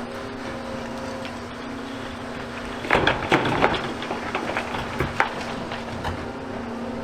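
Excavator engine running at a steady hum. About three seconds in, demolition rubble clatters and cracks for a couple of seconds in a burst of knocks, as debris is dropped or handled by the bucket.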